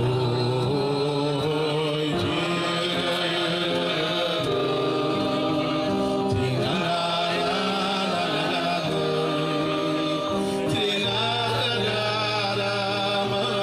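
Male voices singing a Jewish melody together, with musical backing: sustained sung notes that carry on without a break.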